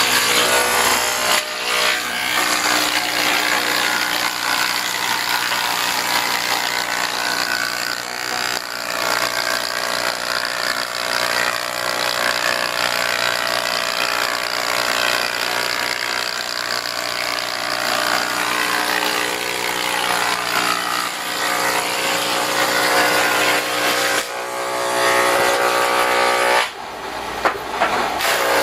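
Sawmill saw running and cutting wood: a steady machine hum under a loud, dense cutting hiss, which dips briefly near the end.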